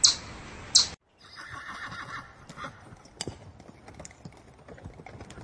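Two sharp, high chirps in the first second, then a horse whinnying for about a second, followed by a few faint scattered clicks.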